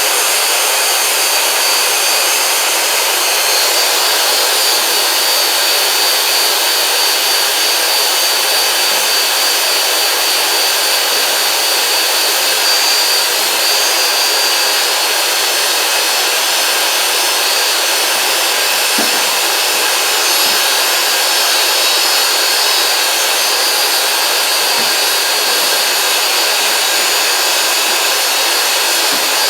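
Chimney sweep's vacuum cleaner running steadily with a faint high whine while the fireplace is cleaned from the inside.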